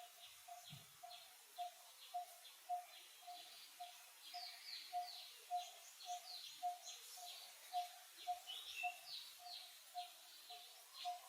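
Wild birds calling faintly: a steady train of short, low, evenly spaced notes, a little over two a second, under scattered high chirps from other birds.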